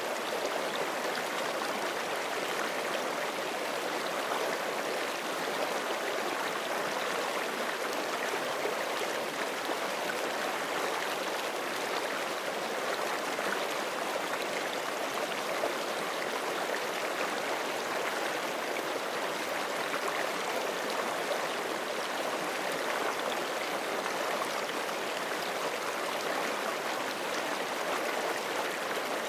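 Forest creek running steadily over rocks, an even rush of flowing water with gurgling.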